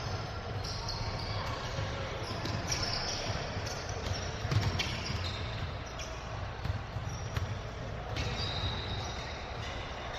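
Basketball game play in a gym: a ball bouncing on the court with repeated thuds, brief high sneaker squeaks on and off, and voices in the background.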